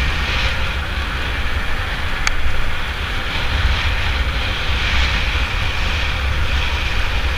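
Wind rushing over the microphone of a camera carried on a moving bicycle, a steady noise with a heavy low rumble.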